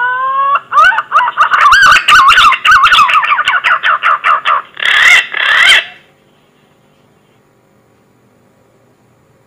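Green pigeon (punai) calling: a rising whistle that breaks into a fast run of warbling whistled notes, then two louder, harsher notes, the call ending about six seconds in. Only a faint hiss follows.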